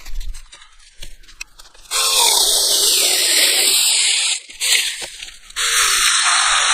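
Tomyvic 6-inch cordless 21 V mini electric chainsaw cutting green wood in two runs, about a second apart: the chain rasps through the wood under a high motor whine that slowly falls in pitch. A few light knocks come first.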